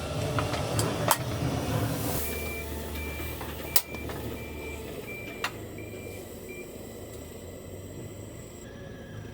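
A vehicle's reversing beeper sounds a string of about eight short beeps at one pitch, a little under two a second, over a low engine rumble that fades away about halfway through. A few sharp knocks fall in among the beeps.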